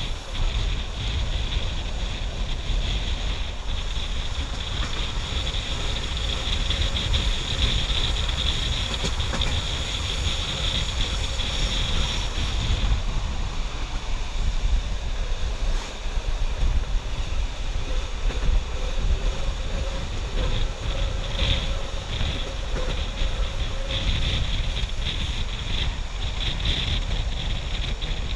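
Wind rushing over the microphone of a camera held out of a moving train's window, over the steady low rumble of the train running on the track.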